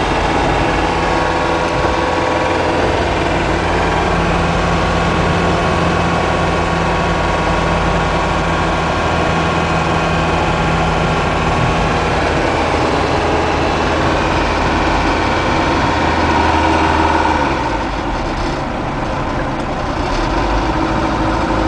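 1986 Isuzu Trooper's turbodiesel engine running steadily on the move. About seventeen seconds in, the engine note eases off and drops in level for a couple of seconds, then picks up again.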